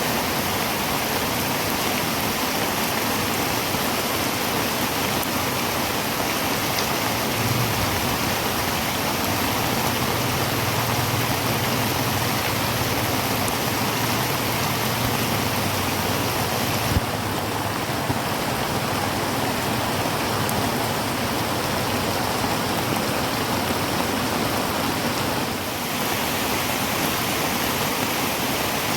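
Heavy rain falling steadily on a tin roof, a dense even hiss of drops. A faint low hum sits underneath through the middle, and a single sharp tap comes a little past halfway.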